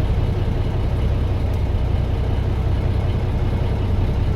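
Fishing boat's engine running steadily at low revs, a deep even drone.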